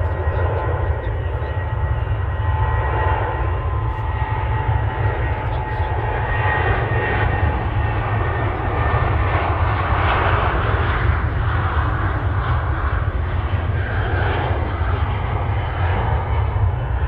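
Airliner engines running as an aircraft moves on or near the runway, a steady noise with a few whining tones. It swells about ten seconds in and eases toward the end.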